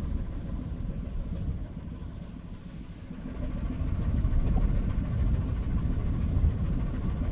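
Low rumbling noise on the deck of a ship at sea, swelling louder about halfway through.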